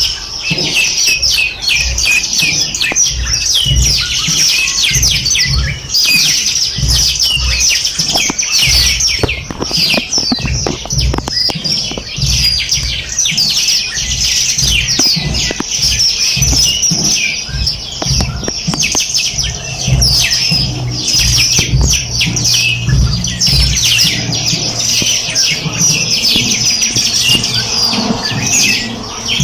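A dense chorus of many small birds chirping at once, short high calls overlapping without pause, over a low uneven rumble.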